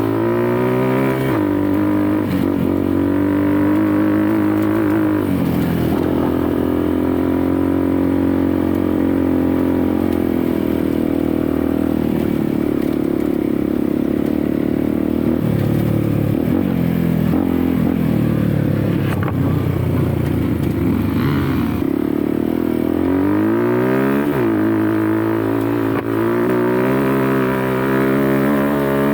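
Dirt bike engine running hard as it is ridden, revs held high for long stretches. The revs drop and climb again about five seconds in and once more a few seconds before the end.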